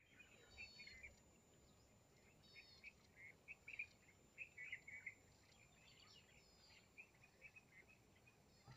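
Faint bird calls: short chirps and twitters, many in quick succession through the whole stretch, over a quiet outdoor background.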